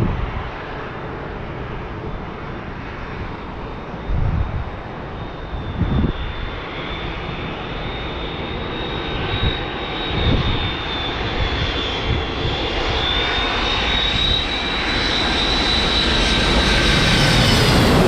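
Jet airliner engines with a high whine, growing steadily louder as the aircraft approaches. A few low thumps show early on.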